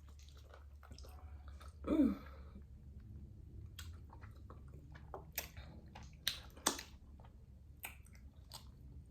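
Close-miked chewing with wet lip smacks and mouth clicks at irregular moments, and a short hummed "mm" about two seconds in, over a steady low hum.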